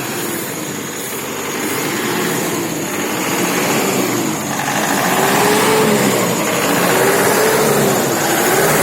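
Truck engine running, its pitch rising and falling in slow waves about halfway through as the throttle is worked up and down.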